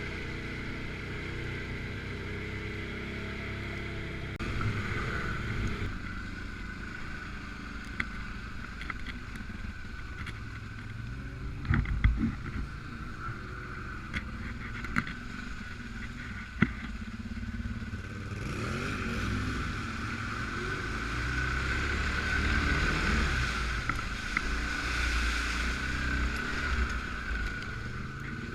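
Suzuki KingQuad 750 AXi ATV's single-cylinder engine running under way off-road, with a steady high whine over the engine note. A few sharp knocks come from bumps over the terrain, loudest a little under halfway through. About two-thirds of the way in the engine revs up and runs harder.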